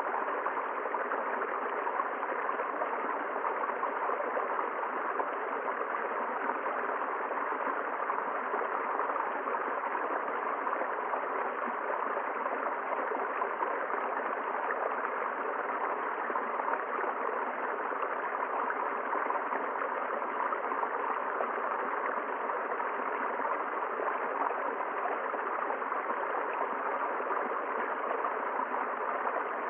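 River water running steadily over rocks: a constant rushing and gurgling with no pauses or changes.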